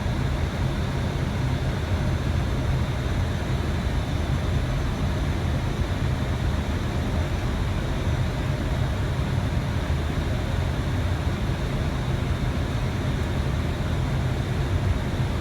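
Steady flight-deck noise of an Airbus A320 on final approach: an unbroken low rumble of airflow and engines, with a few faint steady tones above it.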